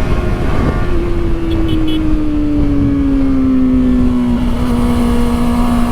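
Kawasaki Ninja ZX-4RR's inline-four engine running at high revs under way, its note easing gently lower over the first few seconds and then holding steady, with heavy wind rush.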